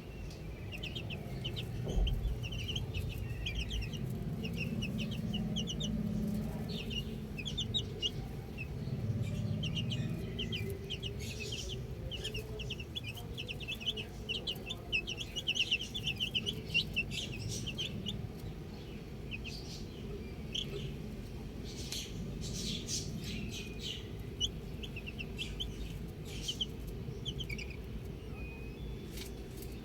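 Baby chicks peeping: a continuous stream of short, high chirps in quick runs, over a low background rumble.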